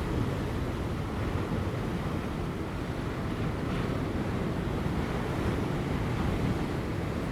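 Ocean waves breaking on offshore rocks, a continuous low rushing surf that swells slightly after the first second, with light wind buffeting the microphone.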